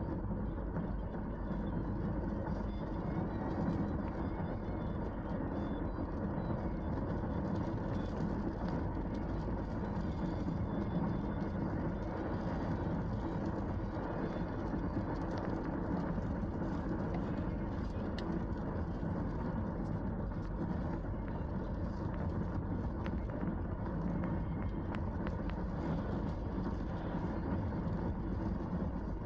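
Steady road noise from inside a moving car on a rain-wet road: a constant low rumble of tyres and engine with a hiss above it, and a few faint ticks.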